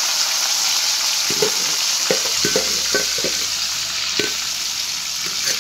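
Marinated chicken pieces sizzling in hot ghee in a karahi: a steady frying hiss with scattered short pops and crackles.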